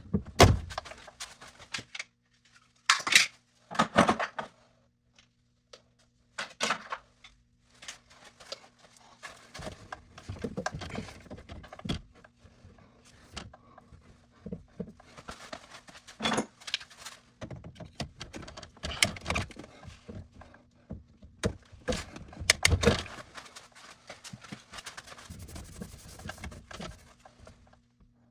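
Irregular clanks, knocks and scraping of metal tools and pipe fittings being handled during plumbing work, with several sharp loud knocks spread through and a faint steady hum underneath.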